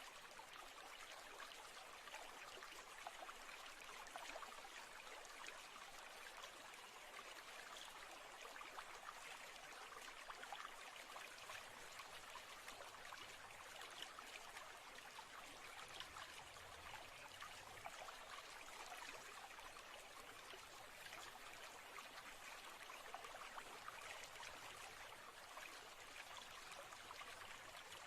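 Faint, steady trickle of running water from a small stream.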